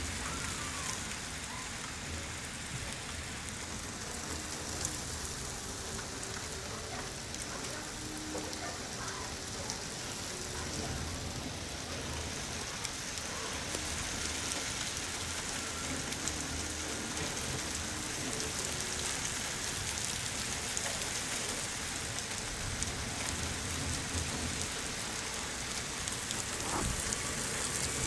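Steady rain from a thunderstorm, an even hiss of falling drops that grows slightly louder about halfway through.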